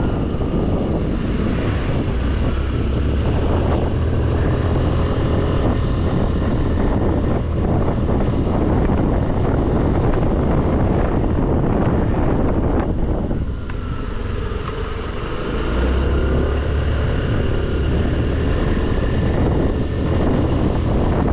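Scooter engine running while riding, with wind rushing over the microphone. About two-thirds of the way through, the engine eases off for a couple of seconds, then picks up again.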